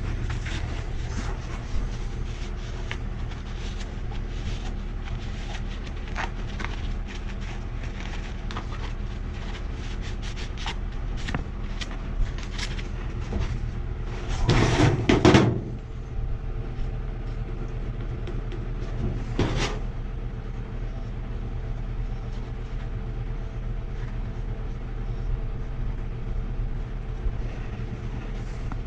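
Scattered clicks and knocks of metal gas pipe and fittings being handled, with a louder clatter about fifteen seconds in and another knock a few seconds later, over a steady low hum.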